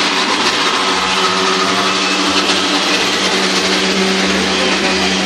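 Canadian Pacific Holiday Train's decorated freight cars rolling past at close range: a loud, steady rumble and hiss of steel wheels on the rails, with a steady low hum under it.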